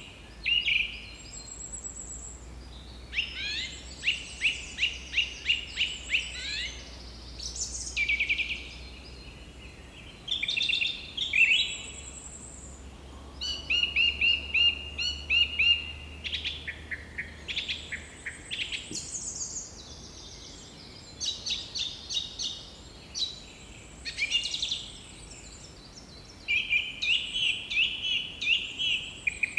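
Birds singing: a string of rapid trilled phrases and sharp chirps, one after another with short pauses between them.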